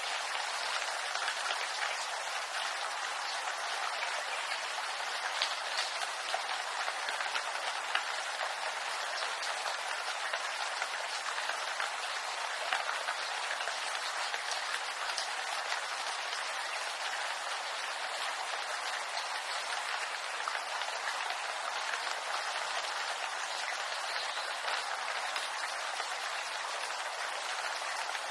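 Steady rain falling on a bamboo grove: an even hiss of rain dotted with countless small drop hits on the leaves, never letting up.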